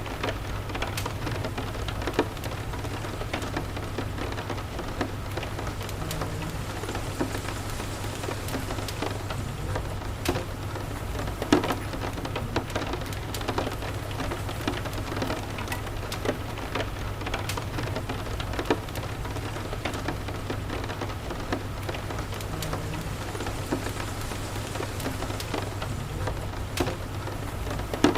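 Steady rain with a low continuous rumble underneath and scattered sharp ticks and pops, the loudest pop a little before halfway.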